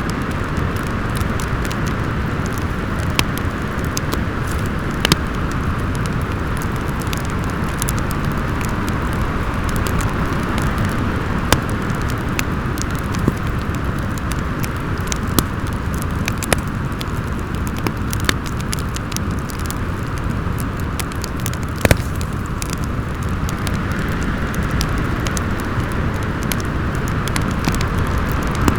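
Storm wind howling steadily with a low rumble, over a wood fire crackling with scattered sharp pops; the loudest pop comes about 22 seconds in.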